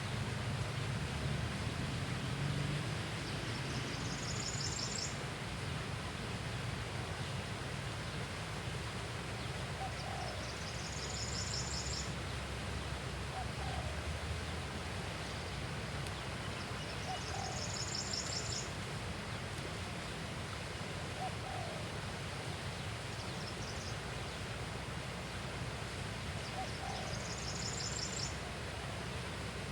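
An animal's high, rapidly pulsed call, about a second and a half long, repeats every six to seven seconds over a steady low rumble and hiss. Fainter short chirps come in now and then.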